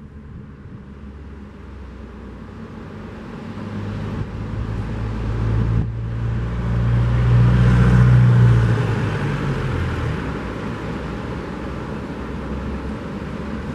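A motor vehicle driving slowly past on the coastal road, its engine hum swelling to a peak a little past halfway and then fading, over the steady wash of surf.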